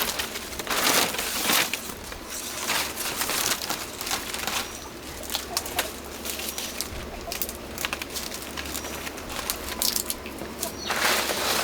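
Irregular rustling and scraping with many short, sharp clicks, the sound of hands working and shifting building materials.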